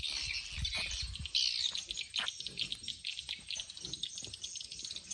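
Birds chirping, a busy chatter of short, high calls, with a few low knocks and scuffs underneath.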